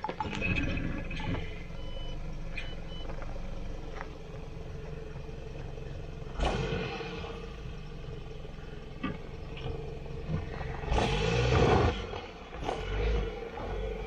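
A car engine running steadily, with louder swells about six and eleven seconds in.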